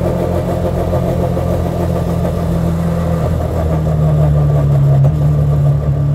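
MST Mk2 Escort restomod's Millington Diamond 2.7-litre four-cylinder engine pulling at steady revs on the move, getting louder about four seconds in.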